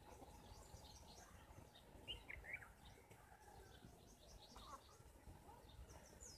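Near silence with faint, scattered bird chirps in the background; a couple of slightly louder chirps come about two seconds in.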